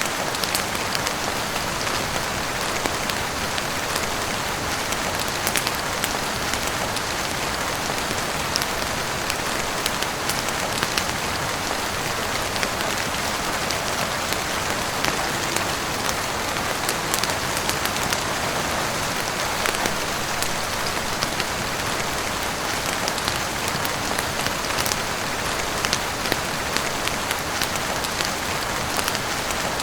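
Heavy rain falling on a roof and windows: a steady, even hiss with scattered sharp ticks mixed in.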